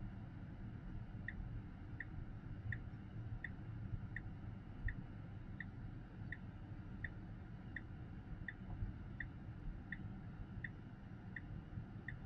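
Tesla Model X turn-signal indicator clicking steadily inside the cabin, about one tick every 0.7 seconds, over a faint low hum of the slow-moving car.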